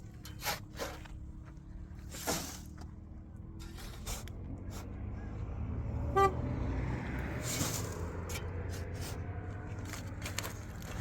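A motor vehicle's engine running as a low rumble that grows louder partway through, with one short horn toot about six seconds in and scattered knocks.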